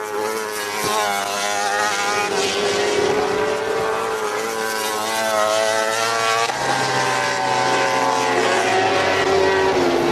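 MotoGP racing motorcycles running at high revs, their engine notes rising and falling as bikes pass, with a fresh engine note taking over about six and a half seconds in.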